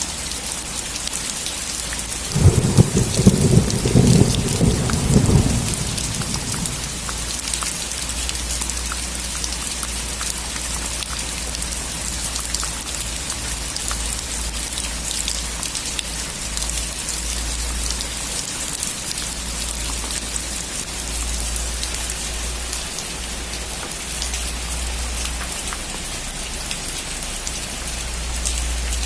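Steady heavy rain falling on a surface, with a roll of thunder rumbling about two to six seconds in, the loudest moment.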